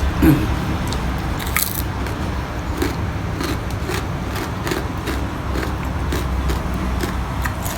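A person chewing and crunching food close to the microphone: many short, crisp clicks and crackles come at an irregular pace over a low steady hum.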